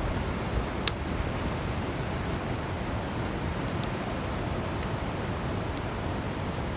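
Wood campfire crackling: a steady rushing hiss with a few sharp pops scattered seconds apart, the loudest about a second in.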